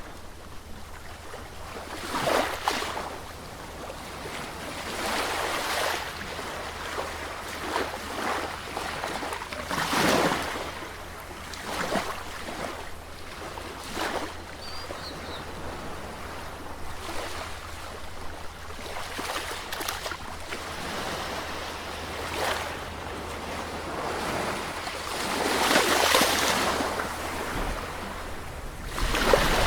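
Sea waves breaking and washing, the surf swelling irregularly every few seconds over a steady hiss, strongest about ten seconds in and again near the end.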